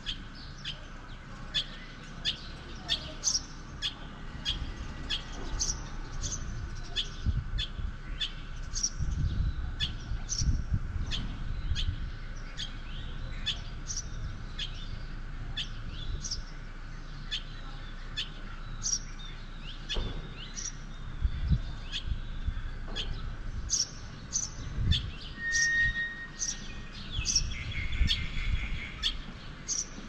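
Small birds chirping over and over, short high chirps about once or twice a second, with stretches of low rumble underneath.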